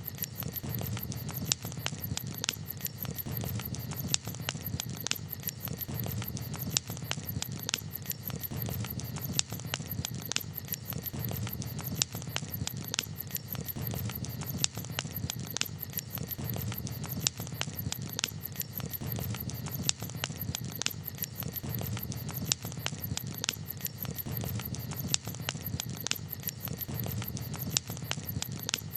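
Wood campfire crackling: irregular sharp pops and snaps over a steady low rumble from the burning fire.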